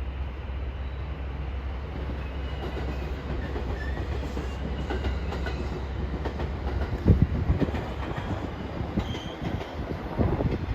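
Train running on rails: a steady low rumble and hum, with a loud knock about two-thirds of the way through and another near the end, and faint high wheel squeal.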